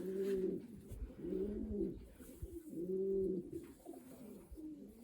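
Racing pigeons cooing in the loft: four low, rolling coos, about one every second and a half, with faint thumps of handling underneath.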